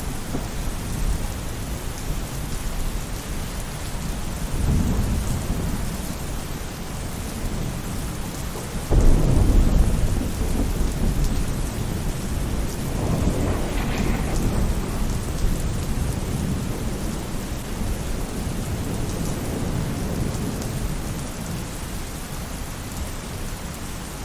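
Steady rain falling on a roof, with thunder rolling through it: a low rumble about four seconds in, a sudden louder clap about nine seconds in that rumbles on for a couple of seconds, and another rumble around thirteen seconds.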